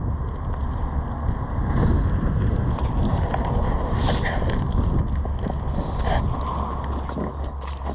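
Wind buffeting the microphone as a steady low rumble, with floodwater sloshing.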